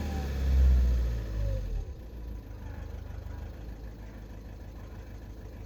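VW 1.6 TDI four-cylinder diesel engine running, with a louder low rumble for the first two seconds that then drops to a steady idle.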